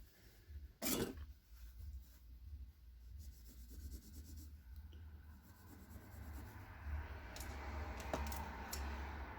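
Oxidised battery contacts being rubbed on sandpaper to clean them: a faint scratchy rubbing that builds from about halfway, after a sharp click about a second in, with a few small clicks near the end.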